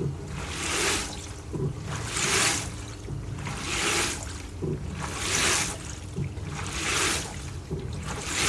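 LG TurboDrum WT-R852 top-loading washing machine agitating a full load of bedding in water. Under a steady motor hum, a low knock and a surge of sloshing water repeat about every one and a half seconds.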